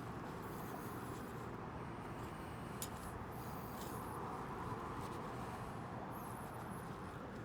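Steady low rumble and hiss, with a single sharp click about three seconds in.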